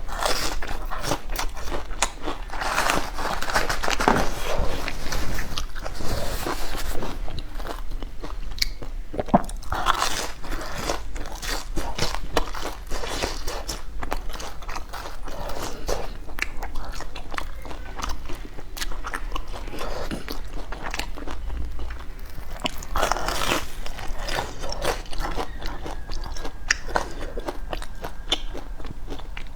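A person biting into and chewing crunchy food: a dense, continuous run of sharp crunches.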